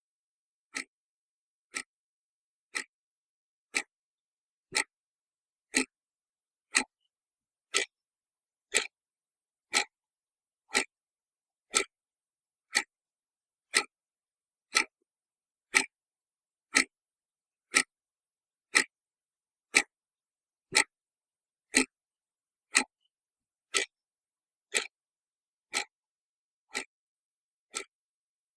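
A clock ticking, one sharp tick each second, evenly spaced, with silence between ticks.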